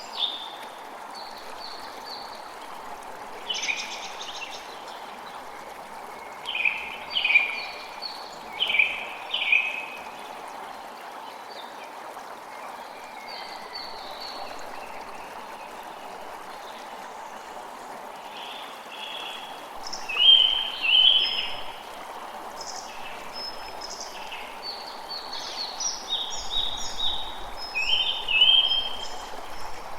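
Steady rush of running water, with birds chirping in short clusters of high notes, loudest about a third of the way in and again around two-thirds through.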